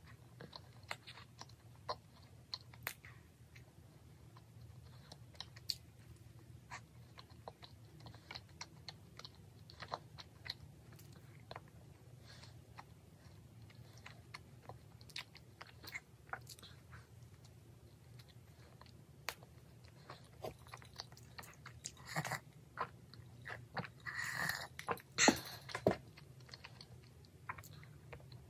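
Close-miked chewing and biting of a chocolate-glazed Krispy Kreme doughnut topped with a chocolate bar, with many scattered small crunchy clicks and a few louder mouth sounds about three-quarters of the way through.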